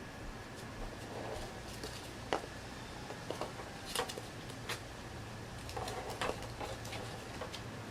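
Scattered light clicks and taps of small objects being handled, irregular and a few a second at most, over a faint steady hum.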